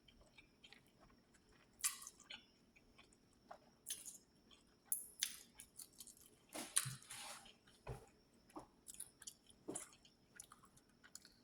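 A person chewing food close to the microphone: irregular wet mouth clicks, smacks and soft crunches, a few every second or two.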